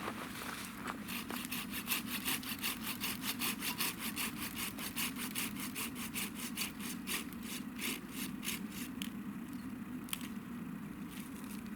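Hand saw cutting through wood in quick, even back-and-forth strokes, stopping about nine seconds in, followed by a few single clicks.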